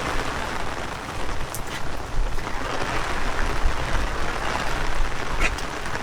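Heavy rain falling steadily, with strong wind buffeting the microphone in an uneven low rumble. A couple of sharp taps stand out, about one and a half seconds in and near the end.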